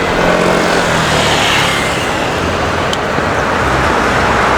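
Steady city street noise of road traffic, with a short sharp click about three seconds in.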